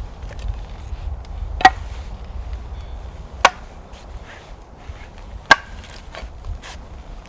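Wood being chopped: three sharp blows of a blade biting into wood, about two seconds apart, with a few lighter knocks between them.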